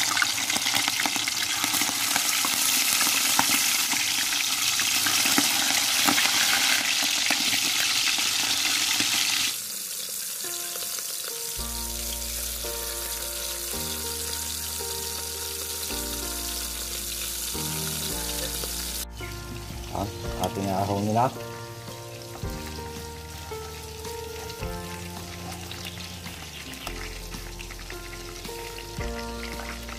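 Chicken pieces deep-frying in hot oil in a wok, a loud steady sizzle. About ten seconds in the sizzle drops to a faint hiss and background music takes over.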